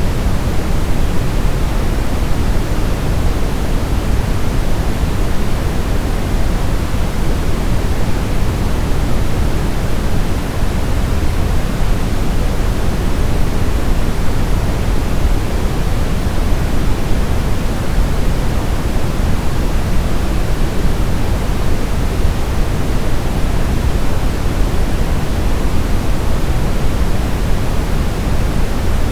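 Steady synthetic sleep-aid noise: a constant, even hiss with its weight toward the low, deep end. It does not change at all.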